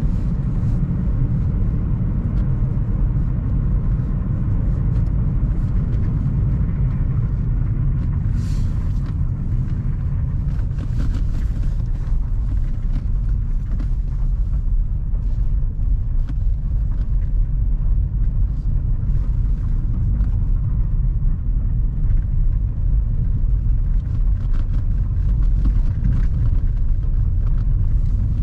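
Car driving along a road: a steady low rumble of engine and tyre noise, with scattered faint ticks and knocks.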